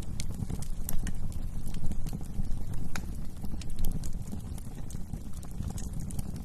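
Wood fire burning in a fireplace: a low, steady rumble of flames with irregular, sharp crackles and pops from the burning logs.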